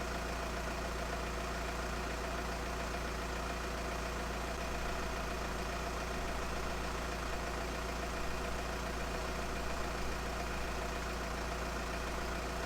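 VW Transporter T5 van's engine idling steadily.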